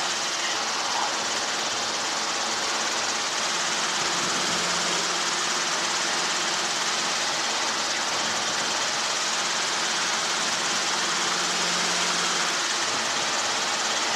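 Helicopter engine and rotor running steadily: an even noise with a faint low hum underneath.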